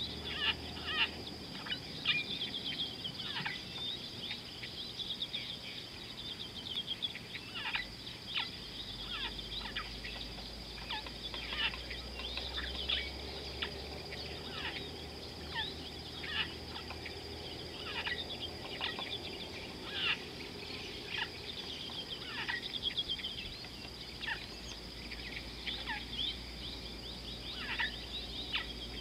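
Birds calling over and over, many short quick downward-sweeping chirps, over a steady high-pitched drone.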